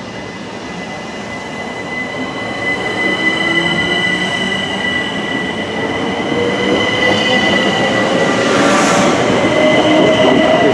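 Class 375 Electrostar electric multiple unit pulling away, its traction motors giving a whine that rises steadily in pitch as it gathers speed. Steady high tones sound over it, and the sound grows louder throughout.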